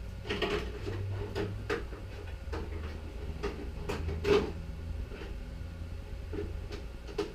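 Clicks and knocks of the plastic body shell of a Traxxas X-Maxx RC monster truck being handled and fitted onto the chassis, with one louder knock about four seconds in, over a steady low hum.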